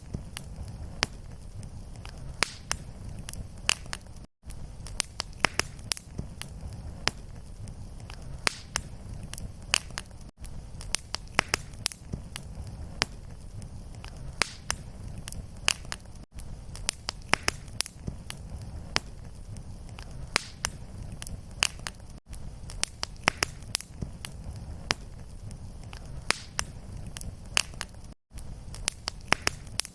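Fireplace fire crackling: many sharp pops and snaps over a steady low rumble of flame. The sound cuts out for an instant about every six seconds, where the recording loops.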